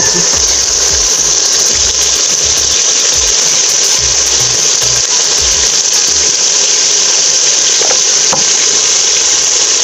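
Tomato-onion masala frying in hot ghee in a metal pot: a steady, loud, bright sizzle, with a few low thumps.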